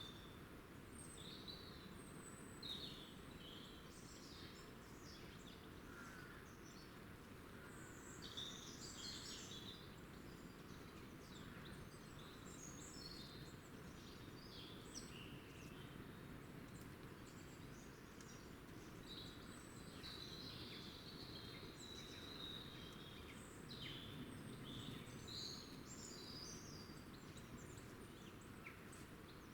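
Small wild birds chirping and twittering faintly, with many short high calls scattered throughout, over a steady low background hiss.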